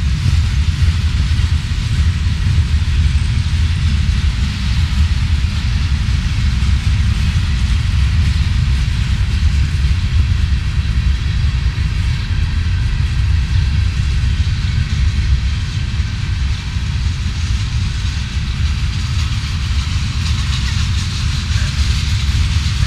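Freight train cars rolling past on the main line: a steady, loud rumble of wheels on rail.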